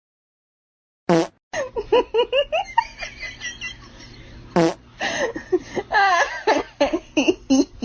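Two loud fart-like blasts, one about a second in and another past four seconds, among people laughing.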